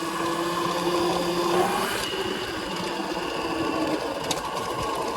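Electric hub motor of a 2000 W e-bike whining steadily under way, over a rushing noise.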